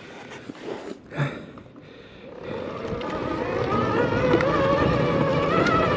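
Electric dirt bike's motor whining as the bike pulls away about two and a half seconds in, getting louder, its pitch wavering up and down with the throttle over a low rumble of tyres on dirt. A few light knocks come before it.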